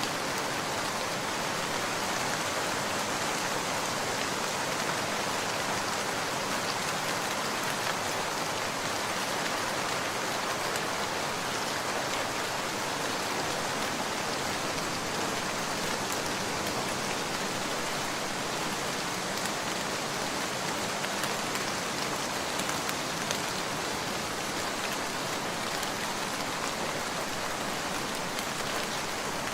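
Steady rain falling, an even, unbroken hiss with a few faint scattered ticks.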